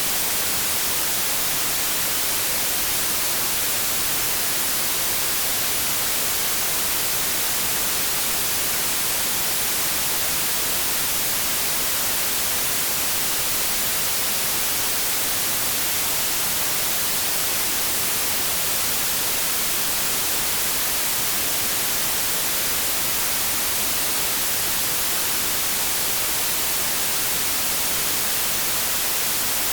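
Steady generated white noise: an even, unchanging hiss, brightest in the high frequencies.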